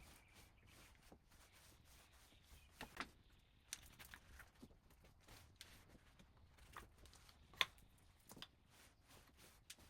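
Near silence with a few faint, scattered clicks and taps, one sharper click about seven and a half seconds in.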